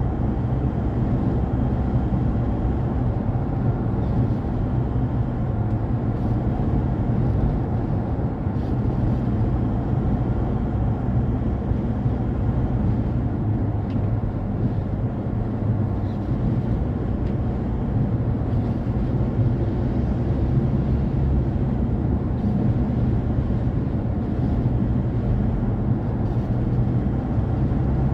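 A car driving at speed, with a steady low rumble of road, engine and wind noise that holds unchanged throughout.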